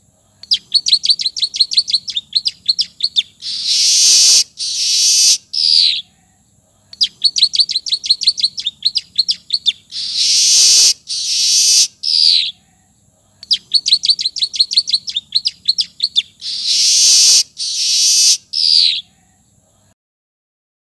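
Manyar (weaver bird) song filled with ciblek (bar-winged prinia) phrases. A rapid run of high chattering notes is followed by loud wheezy hissing notes and a falling whistle. The whole phrase repeats three times, about every six and a half seconds, and then stops.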